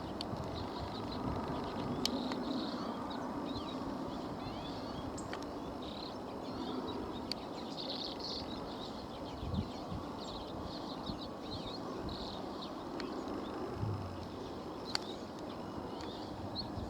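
Common redpolls twittering: many short, high chirps and trills over a steady low rumble of background noise.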